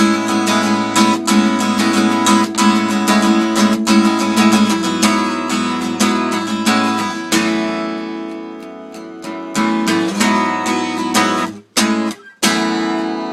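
Acoustic guitar strumming the song's closing chords: quick, even strokes for about seven seconds, then slower strokes with the chords left to ring. Near the end the strings are damped twice, and a last chord rings out.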